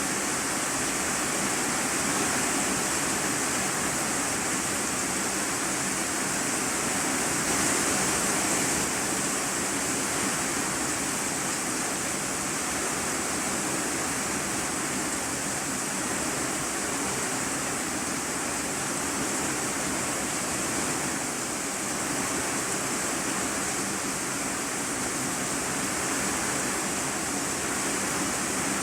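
Heavy rain drumming on a corrugated iron sheet roof, heard from the room beneath it as a steady, dense hiss.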